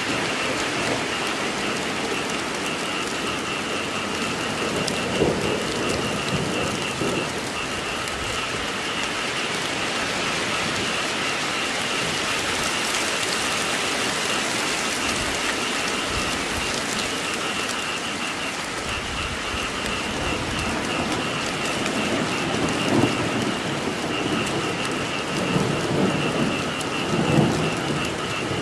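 Steady rain falling, with a chorus of frogs calling in a pulsing, high, steady band over it. A few low rumbles of thunder come through, mostly in the second half.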